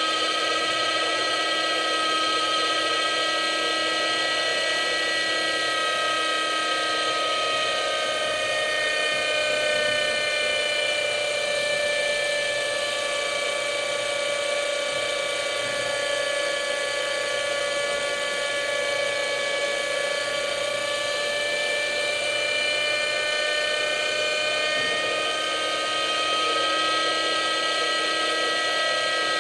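A Hirobo Shuttle radio-controlled helicopter's small glow-fuel engine and rotor running with a high, steady whine. The pitch sags for several seconds in the middle and then climbs back.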